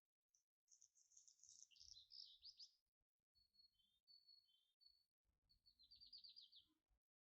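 Faint songbird singing: quick trilled phrases and high warbling phrases, broken by a few brief dead-silent gaps.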